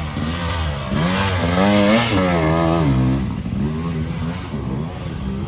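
Off-road race vehicle's engine revving up and down as the throttle is worked, getting louder and higher toward the middle, then dropping in pitch as it passes by.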